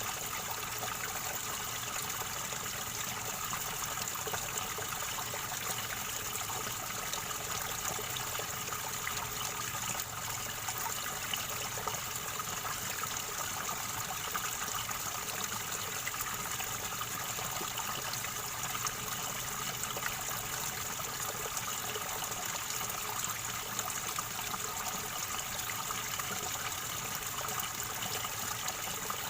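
River water gurgling in a steady, unbroken flow.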